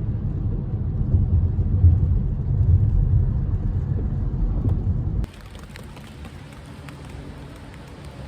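Low rumble of a car on the move, which stops abruptly about five seconds in and gives way to a quieter steady hiss of rain with faint drops.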